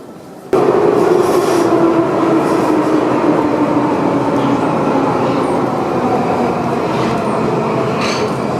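A train running, with a steady hum whose pitch slowly falls, cutting in suddenly about half a second in.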